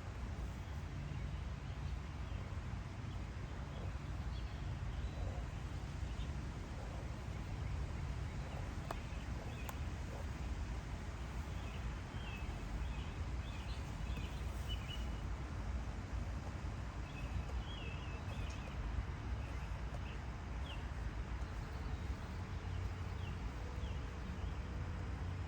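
Small birds chirping in short, scattered calls, most of them in the middle stretch, over a steady low rumble.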